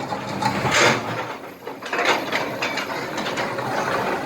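Kobelco SK200 excavator at work: several bursts of scraping and clattering as its steel bucket handles broken asphalt and small rocks.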